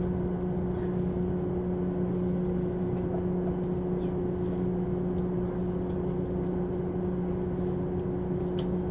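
Cabin noise inside a JR 185 series electric train: a steady rumble with a low electrical hum that holds one pitch throughout.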